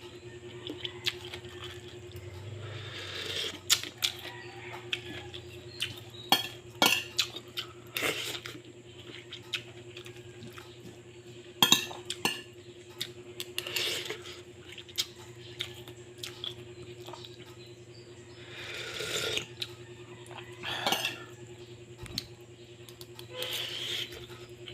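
Cutlery clinking and scraping against a plate at irregular intervals while eating, with a few longer scraping swells, over a steady low hum.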